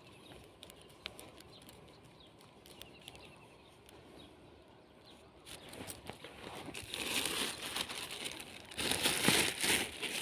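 Rustling and crinkling handling noise. It is faint, with scattered clicks, for the first half, then grows louder and more irregular from about halfway through.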